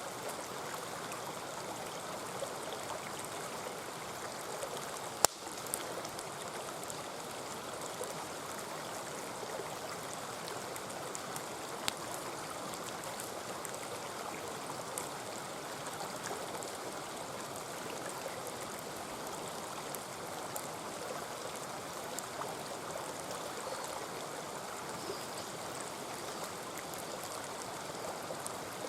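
Mountain stream flowing steadily, with occasional sharp pops and crackles from a wood campfire, the loudest about five seconds in.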